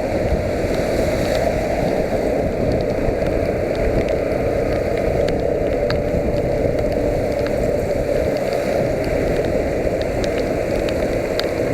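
Yamaha YBR125's single-cylinder four-stroke engine running steadily in the rain, under a dense even rumble, with scattered raindrop ticks.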